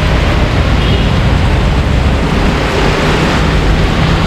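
Heavy rain pouring down in a loud, steady hiss, with a low rumble underneath.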